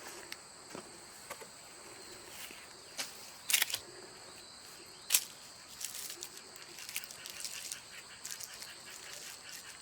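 Insects, crickets, chirping steadily in a high, continuous chorus, with scattered clicks and rustles. Two sharp cracks stand out, about three and a half and five seconds in.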